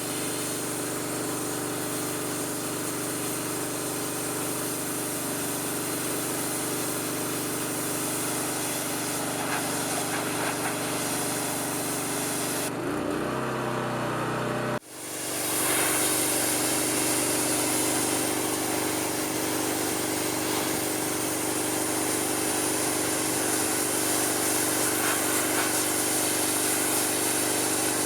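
Gas pressure washer engine running steadily under the hiss of the spray. About 13 s in the spray stops and the engine note wavers for a couple of seconds; then the sound cuts out abruptly for an instant and comes back with the spray hissing again.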